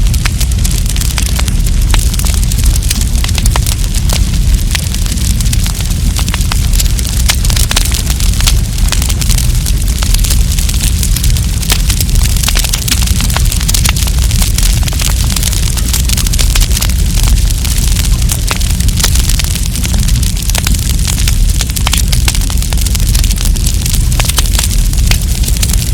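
Wood campfire burning: many sharp crackles and pops over a steady low rumble of the flames.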